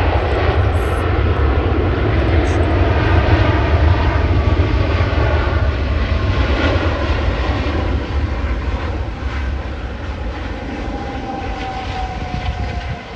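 Jet airliner's engines passing close: a loud rumble that builds to a peak a few seconds in and then fades away, with a slightly falling whine near the end.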